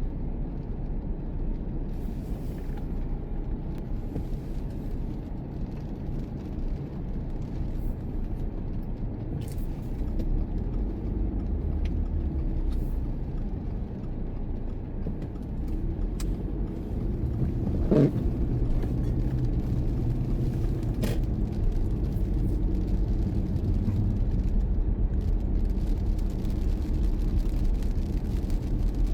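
Car on the move: a steady low rumble of road and engine noise that grows a little louder in the second half. One sharp knock comes about two-thirds of the way through, with a few faint ticks scattered across the rest.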